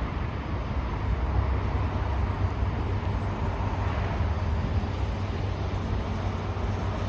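Z3-class tram in motion, heard from on board: a steady low rumble of steel wheels on rails and running gear.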